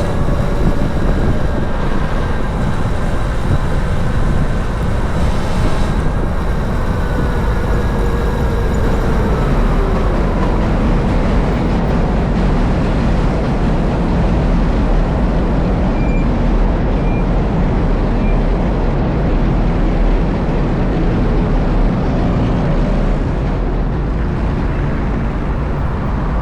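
Steady rush of wind and road noise while riding an electric motorcycle, heaviest in the low end. A faint whine slides slowly in pitch during the first ten seconds or so.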